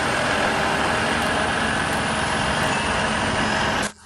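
Loud, steady mechanical noise of a heavy vehicle or machine running. It cuts off abruptly near the end.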